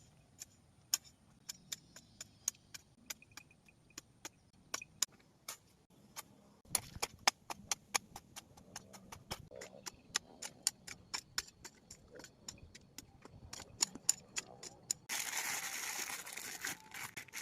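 Garden soil being worked by hand for a vegetable bed: a run of sharp ticks and clicks, two or three a second, with a denser stretch of scraping and rustling soil about fifteen seconds in.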